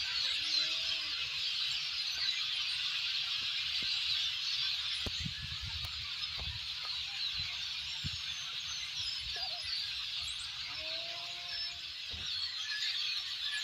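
A large flock of European starlings chattering together in the trees: a dense, continuous mass of squeaky whistles, chirps and clicks from many birds at once.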